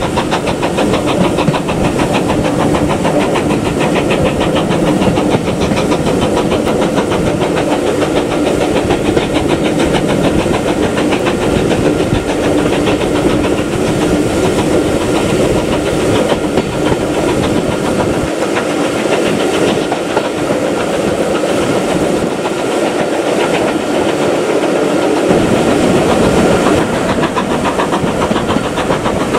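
Steam train running steadily: a continuous loud rumble and hiss with a rapid rattle from the rails and carriages.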